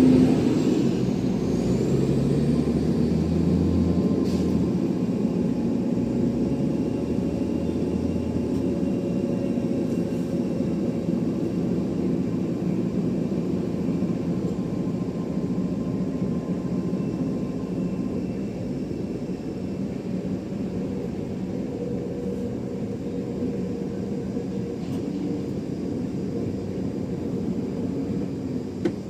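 Aircraft engines running, a steady low rumble that slowly fades.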